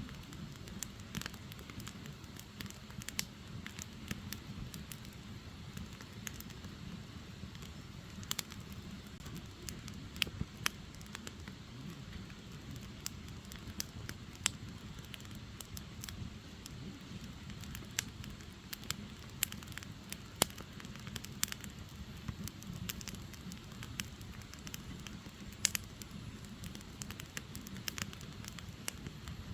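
Firewood fire burning, with irregular sharp crackles and pops over a steady low rumble of flame.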